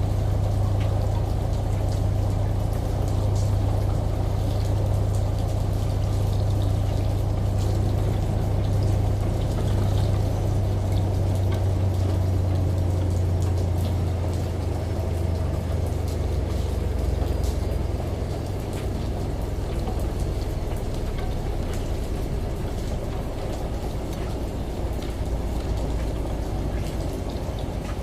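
Layered ambience of rain and running shower water over a washing machine's steady low drum hum, with faint patter of drops on top. The hum eases a little past the middle.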